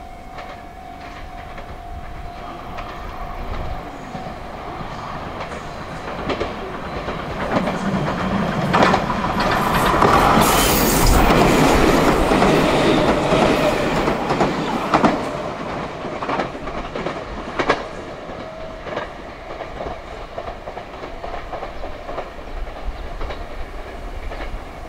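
A train passes, its wheels clattering over rail joints. It grows louder to a peak around the middle and then fades away. A steady alarm tone is heard in the first few seconds.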